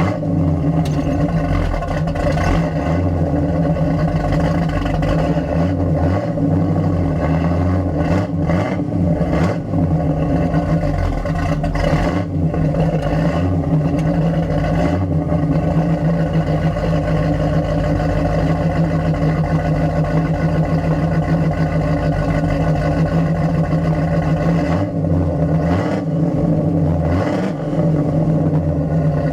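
The exhaust of a 1975 Pontiac Trans Am's 455 V8 with headers, picked up by microphones on the rear license plate while driving. It is a loud, steady exhaust drone holding an even engine speed.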